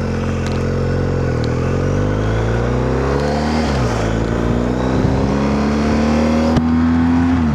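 BMW R1250GS's boxer twin engine pulling away and accelerating: the engine note climbs, drops sharply at a gear change near the middle, then climbs again.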